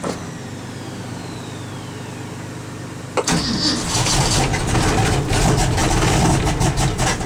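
1969 Ford F250 engine in a cold start at about 0 °F on half choke: it turns over with a falling whine, then about three seconds in a sharp click comes and the engine catches. It runs rough and uneven as it fires up cold.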